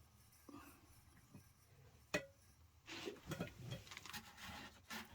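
Quiet handling sounds: a single sharp click about two seconds in, then a stretch of rustling and small knocks.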